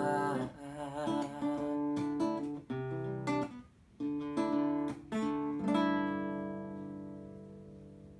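Acoustic guitar playing a song's closing phrase, picked and strummed notes with short breaks, then a final chord about two-thirds of the way in that rings out and fades away.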